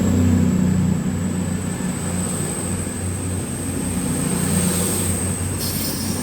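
A CrossCountry Class 220 Voyager diesel-electric multiple unit running under power as it pulls out, with a steady low engine drone and a thin high whine. A brief hiss comes in near the end.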